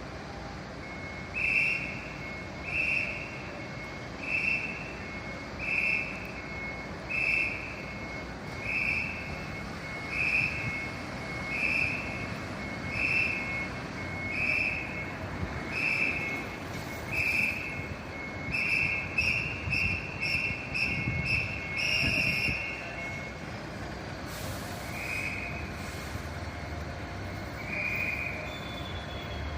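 Electronic warning beeper on a fire vehicle, beeping evenly about every second and a half over a low engine rumble. About two-thirds of the way in it quickens to about two beeps a second, pauses, then sounds a few more widely spaced beeps.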